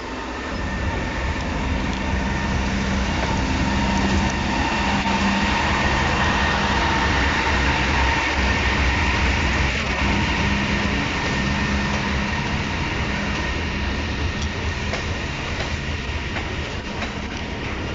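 Diesel-hauled train passing, the locomotive engine's steady low rumble and the running noise swelling to a peak partway through and then slowly easing off. Thin steady whining tones ride over the rumble.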